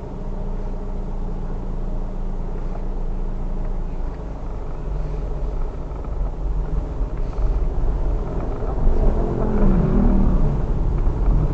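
Vehicle engine running with a low, steady rumble, growing louder and more uneven from about eight seconds in.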